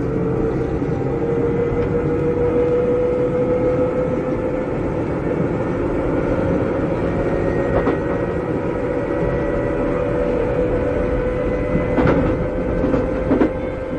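Interior running sound of a Keikyu old 600 series (2nd generation) electric car with Toyo Denki traction equipment. The motor whine rises slowly in pitch as the train gathers speed, over a steady wheel-and-rail rumble. Rail-joint clicks come about two-thirds of the way in and several times near the end.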